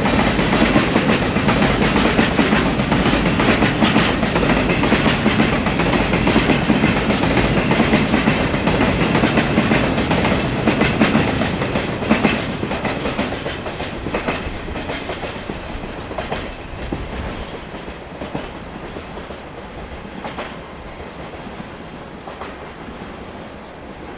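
Rail-carrying flat wagons of a freight train rolling past close by, their wheels clicking over the rail joints. After the last wagon passes, about halfway through, the clicking fades steadily as the train moves away.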